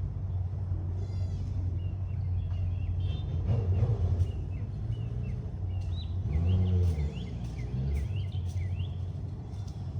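Steady low rumble of vehicle engines, swelling louder twice as a vehicle passes, about three and a half and six and a half seconds in; small birds chirp over it throughout.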